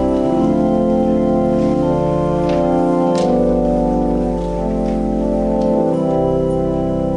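Organ playing slow, sustained chords over low bass notes, changing chord every few seconds.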